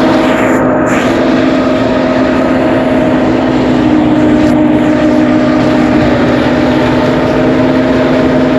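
Engine-driven rice thresher running steadily, a constant loud motor drone.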